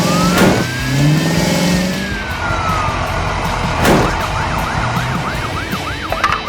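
Cartoon sound effects over background music: toy-like car engines revving up in rising glides, a long whistle that rises and then falls, two swooshing hits about half a second and four seconds in, and a quick warbling tone near the end.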